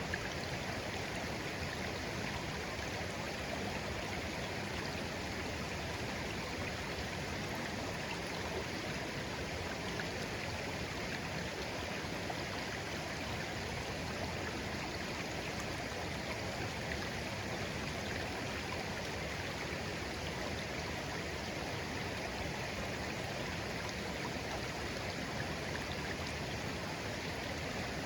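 A clear, shallow stream babbling steadily, gently flowing water with an even, unbroken rush.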